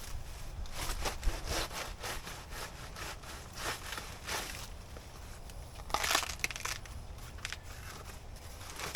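Banana plant's fleshy stem and leaves being cut and chopped: irregular crunching, rasping strokes, the longest about six seconds in.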